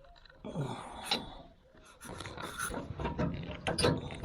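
Pliers clicking and scraping on metal while working a cotter pin out of its mount, with a few sharp clicks about three to four seconds in.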